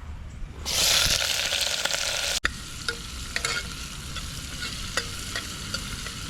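Onions frying in hot oil in a pan. A loud burst of sizzling starts about a second in, then after a break settles into a steadier sizzle with scattered small pops and crackles.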